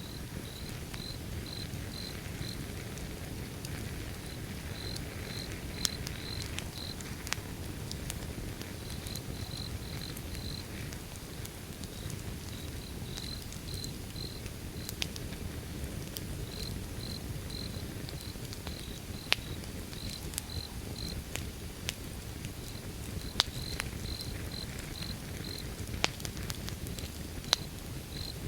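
Burning wood fire: a steady low rumble with occasional sharp crackling pops, about seven of them. Throughout, a high chirping comes in short, evenly pulsed runs with pauses between.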